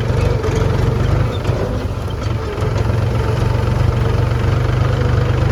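Diesel engine of a farm machine running steadily with a deep, even drone.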